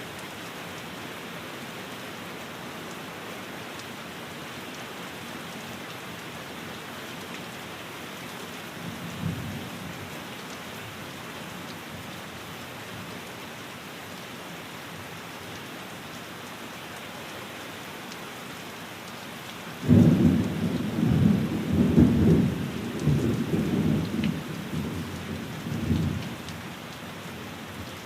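Steady rain falling, with a short low rumble of distant thunder about a third of the way in. About two-thirds through, a loud clap of thunder breaks in suddenly and rolls on for about six seconds before dying back to the rain.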